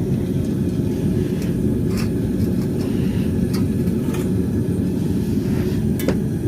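Gas burner running with a steady low roar as it heats a hollow metal pipe for bending, with a few light clicks of handling over it.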